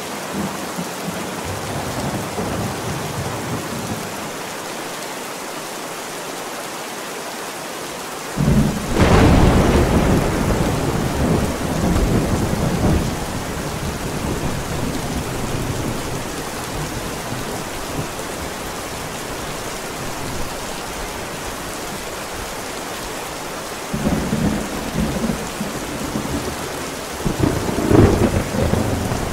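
Thunderstorm with steady rain, mixed as 8D audio. About a third of the way in, a sudden loud thunderclap rumbles on for several seconds, and further thunder rumbles come near the end.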